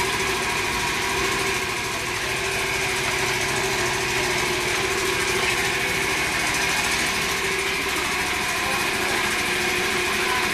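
Suzuki GSX-R1000 inline-four motorcycle engine idling steadily.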